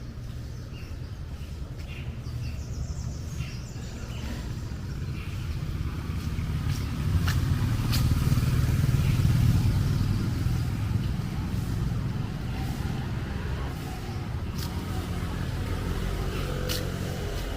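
Street traffic: a passing motor vehicle's engine rumble swells to its loudest about eight to ten seconds in, then fades away.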